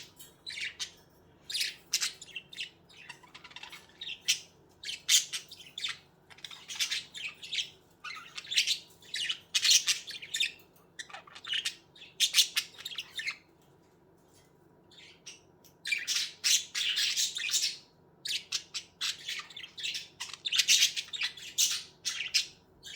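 Pet budgerigars chirping and squawking in rapid, scratchy bursts, with a short lull a little past the middle.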